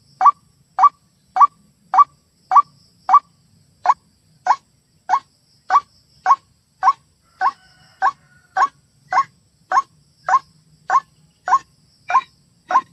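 White-breasted waterhen (ruak-ruak) calling, a recorded lure track: one short, rising call note repeated evenly, a little under two a second.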